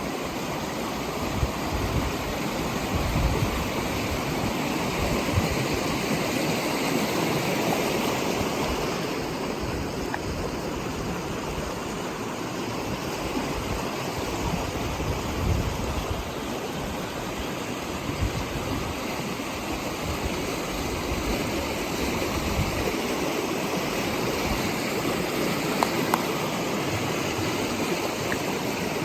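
Floodwater rushing steadily: a small creek and storm runoff in spate after heavy rain.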